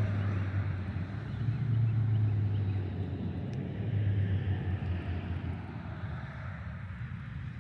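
A motor running with a steady low hum that wavers slightly, getting quieter over the last few seconds.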